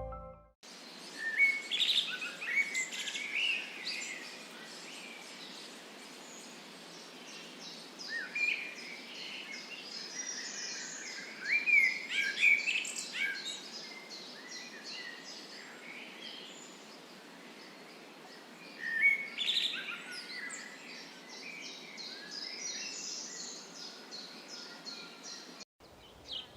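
Several songbirds singing and chirping in short overlapping bursts over a faint steady hiss, with fast runs of high repeated notes behind them. The sound cuts out briefly near the end.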